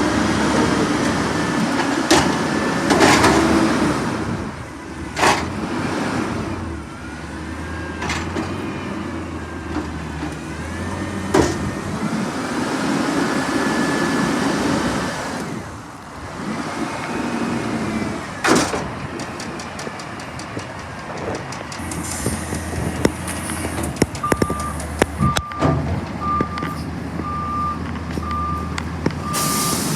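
Garbage truck running through its recycling pickup: the engine hums steadily with whines that rise and fall, and loud bangs and clatters sound several times as the load is emptied. Near the end the truck's reversing beeper starts, beeping about once a second.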